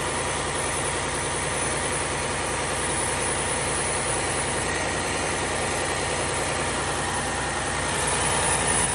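Cummins ISM 350 diesel engine of a Kenworth W900 mixer truck idling steadily.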